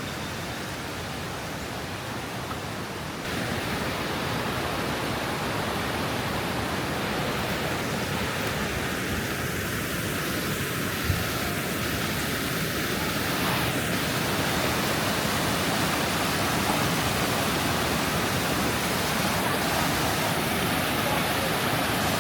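Rushing water of a waterfall on the Krka River, a steady even roar that jumps up in level about three seconds in.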